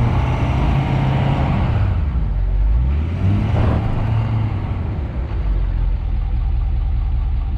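Pickup truck engine revved twice under load, trying to drive out of a soft, muddy snowbank where the truck has slid off, then easing back. The attempt fails: the truck stays stuck.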